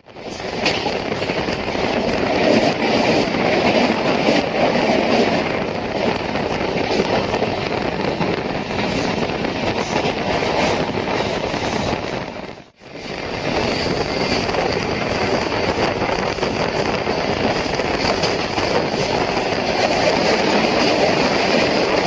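Kerala Express passenger train running along the line, heard from on board: a steady rumble of wheels on rails with faint clicks over rail joints. It cuts out abruptly for a moment about halfway through.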